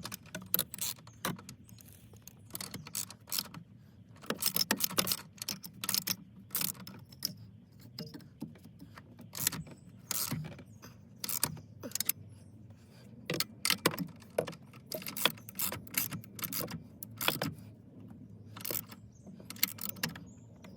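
Irregular clicking, clacking and jangling of metal and plastic parts as a steering wheel is worked and forced back onto its steering column, many sharp knocks at no steady rhythm.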